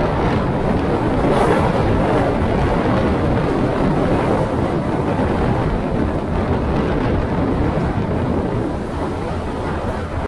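Steady rush of wind buffeting the microphone on a moving motorcycle, mixed with road and engine noise. It stops abruptly at a cut near the end.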